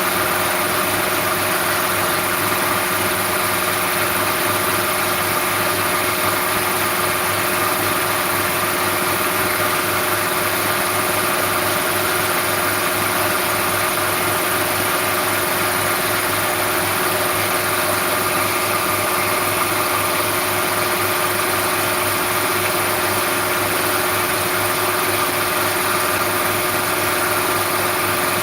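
An engine idling steadily, its hum holding one even pitch throughout.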